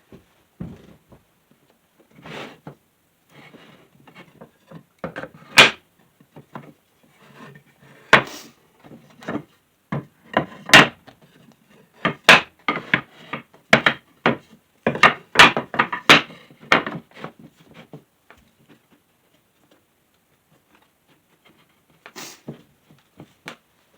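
Wooden boards being set down and shifted around on a workbench: irregular sharp knocks and clacks of wood on wood, busiest in the middle, with a few quiet seconds near the end.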